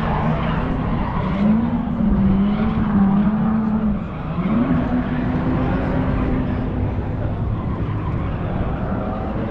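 Car engine revving up and down, dropping sharply about four seconds in, then climbing again and holding a steady pitch.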